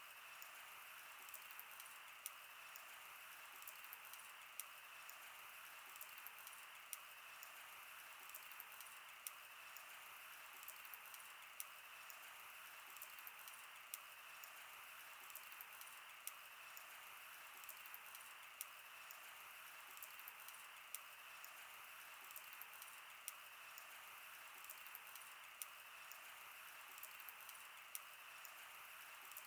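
Wood fire burning quietly: a steady soft hiss of flame with frequent small sharp pops and snaps of crackling wood.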